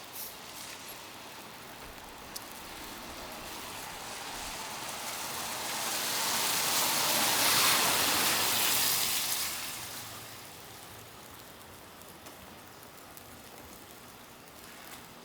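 A vehicle passing on a snowy street: the tyre hiss swells over several seconds, peaks about eight seconds in, and fades away by about ten seconds.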